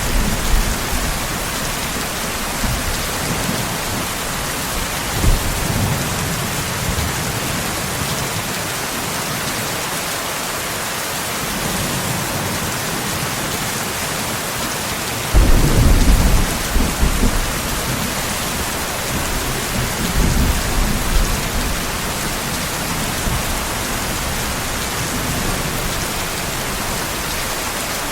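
Steady rain with rolling thunder. A louder thunder rumble breaks in suddenly about halfway through and rolls on for a few seconds, with smaller rumbles earlier and later.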